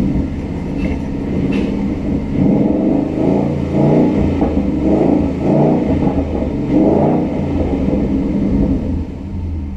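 2013 Ford Mustang 5.0L V8 engine running, swelling several times through the middle as it is revved, then settling lower near the end.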